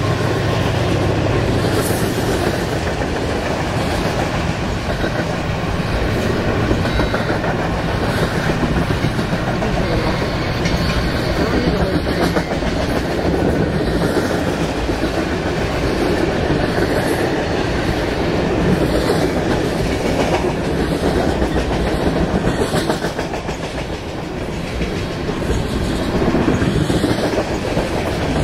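A freight train's cars rolling past: a steady wheel rumble with clickety-clack from the wheels passing over rail joints.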